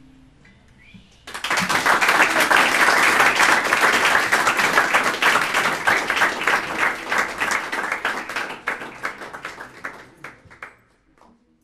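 The last acoustic guitar chord dies away, then a small audience applauds, starting about a second in and thinning to a few scattered claps near the end.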